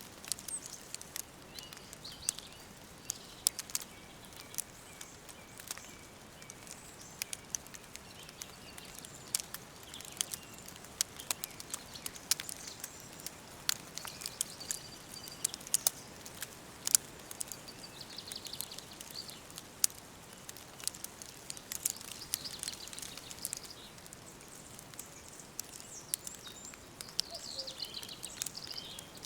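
Wood fire crackling with frequent sharp pops, while small birds chirp and sing in short phrases, with a brief falling trill near the end.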